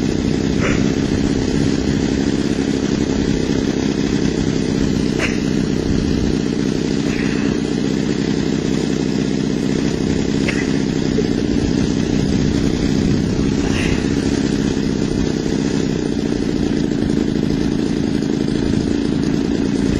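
Model airplane glow/gas engine idling steadily on the ground, its needle valves at a baseline of about 1.5 turns open before tuning. A few faint short chirps sound every few seconds over the engine.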